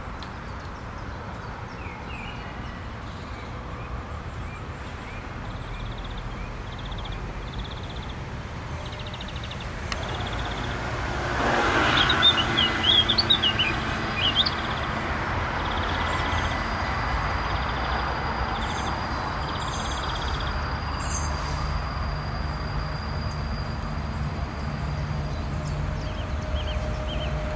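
Heavy ore freight train approaching and passing. Its rumble rises about eleven seconds in, with a brief wavering high-pitched squeal, then settles into a steady rumble of rolling wagons.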